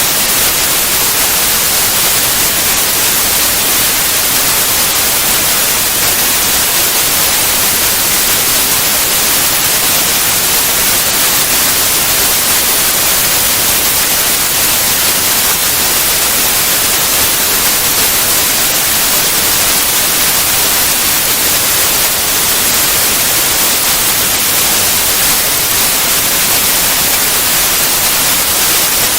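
Steady, loud white noise: an even hiss across all pitches with no changes, breaks or events.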